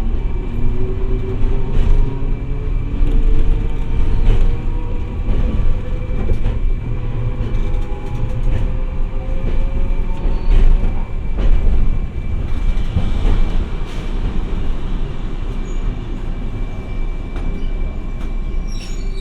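Hiroden 700 series tram running: a heavy steady rumble of wheels on rail, with a motor whine rising slowly in pitch over the first several seconds as the tram picks up speed, and scattered short knocks from the track.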